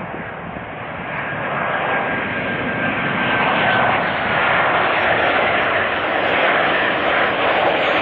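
Jet airliner engine noise, a steady rush that swells louder from about a second in as the plane draws near, with a faint high whine sliding slightly lower in the middle.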